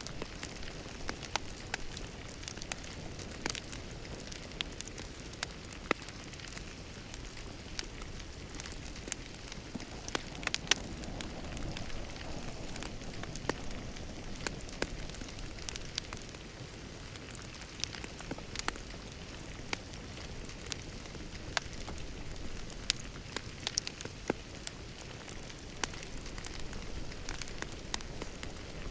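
Wood fire in a fireplace crackling, with sharp irregular pops over a steady low rush of burning.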